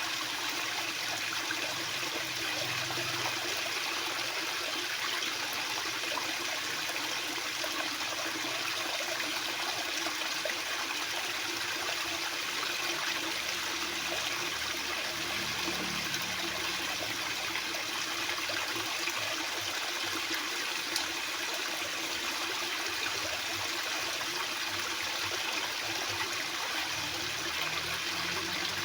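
Fast-flowing water, a steady even hiss of flow.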